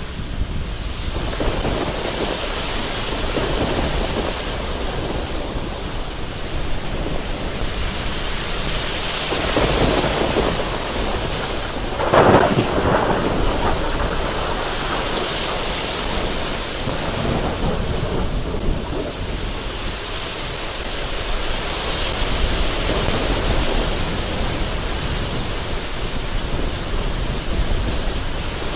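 Heavy rain beating against a window in strong, gusty wind, the hiss swelling and easing every few seconds, with thunder rumbling and a louder clap about twelve seconds in.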